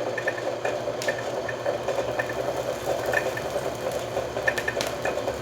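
Hand hammer blows on a hot chainsaw-bar blank being forged into a knife, giving short metallic rings at irregular intervals over a steady mechanical hum.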